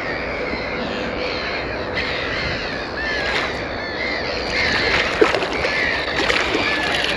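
Birds calling over the water, a run of many short calls that bend up and down in pitch, with a steady outdoor background.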